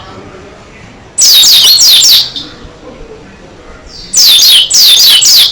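Pleci dakun white-eye singing: quick runs of high, downward-sweeping notes in three loud bursts, one about a second in and two close together near the end.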